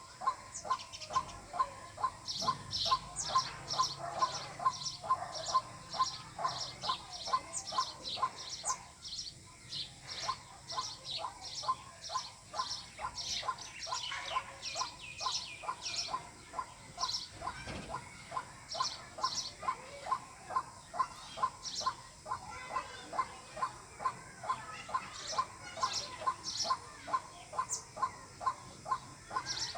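White-breasted waterhen calling, a long unbroken run of repeated notes at about three a second, each pairing a lower note with a sharp higher one.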